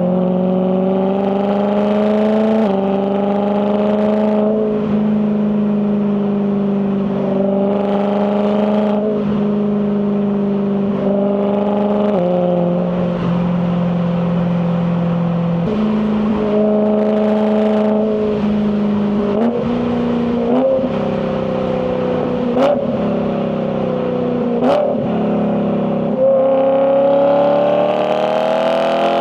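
BMW E92 M3's S65 4.0-litre V8 exhaust running at moderate revs through a series of dual-clutch gear changes, its pitch jumping in sudden steps between gentle rises and falls, and climbing again near the end. Two brief sharp cracks come about two-thirds of the way in.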